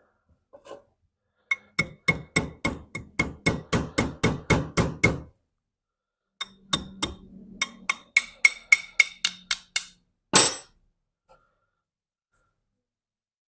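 Ratchet wrench clicking in two runs of about five clicks a second while the 17 mm bowl nut is worked loose on a carburetor held in a vise. A single short, loud burst follows near the end.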